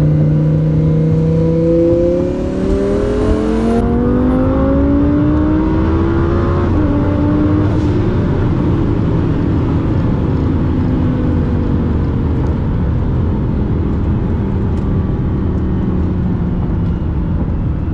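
Lamborghini Huracán's twin-turbo V10 heard from inside the cabin under full throttle: its pitch climbs for several seconds, drops briefly about seven seconds in as it shifts, then holds a steady drone under heavy wind and road noise at high speed.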